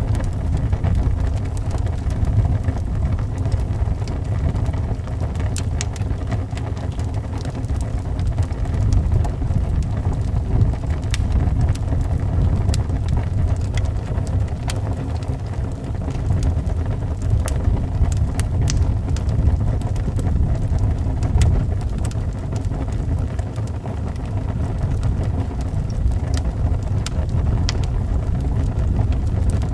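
Wood fire crackling with scattered sharp pops over a steady low rumble of howling wind.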